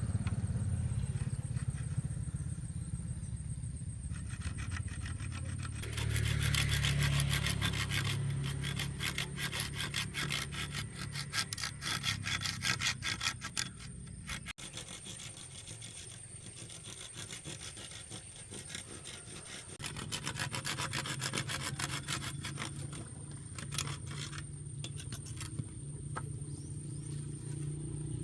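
Hand saw cutting through wood in quick back-and-forth strokes, the busiest run in the middle, then lighter rubbing strokes near the end.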